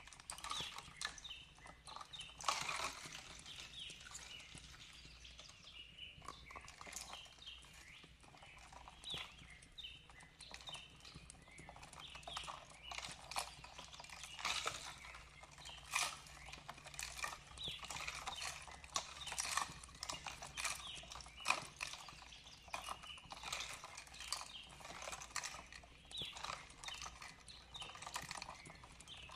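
Wood fire crackling, with irregular snaps and pops, some sharper than others. Soft bird chirps come through now and then.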